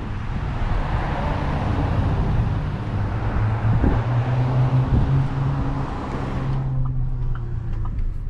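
Car driving, heard from inside the cabin: a rushing road and wind noise over a steady low engine hum. The rushing dies down about six and a half seconds in, leaving the hum.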